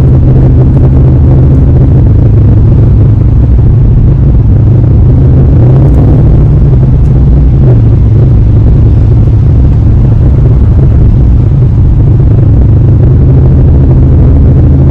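Porsche Panamera GTS's V8 exhaust giving a deep, steady drone while driving, the engine note shifting slightly in pitch now and then.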